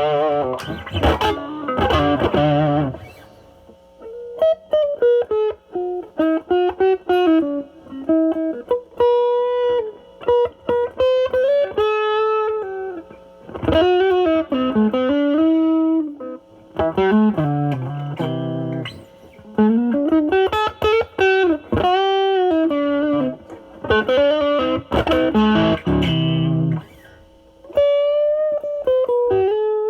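Semi-hollow electric guitar through a NOBELS ODR-1 overdrive pedal with its drive at about 7 to 8, into a Marshall Valvestate amp on its drive channel. It opens with about three seconds of thick, distorted chords, then cleans up into single-note improvised lead lines with string bends and short pauses.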